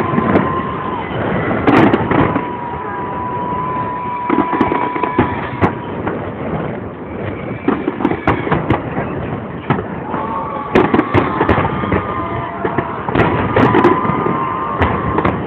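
Fireworks salute going off: repeated sharp bangs and crackles of bursting shells, bunched in clusters, with a high whistling tone held for a few seconds at a time.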